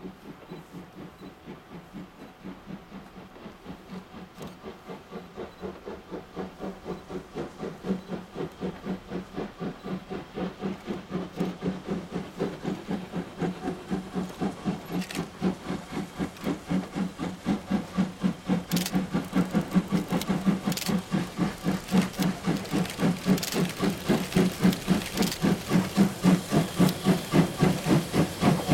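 C58 steam locomotive working hard, its exhaust beating in a steady rhythm of about three chuffs a second that grows steadily louder, with a few sharp clicks in the second half.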